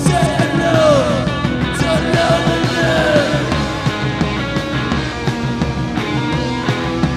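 A rock band playing loud and steady, with sliding, bending pitched lines over a dense beat.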